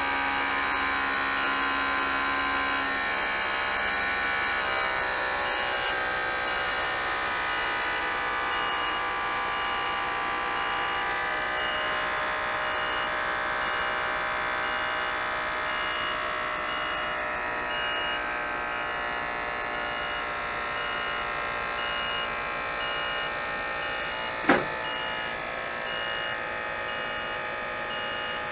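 Isuzu Giga truck's straight-six turbo diesel idling steadily and quietly, a constant whine over a low rumble. One sharp click about 24 seconds in.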